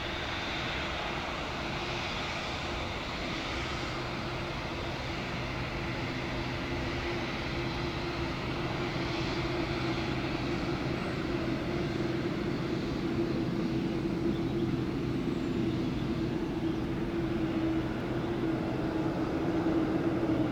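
Boeing 787 Dreamliner jet engines running, a steady noise with a held hum that slowly grows louder.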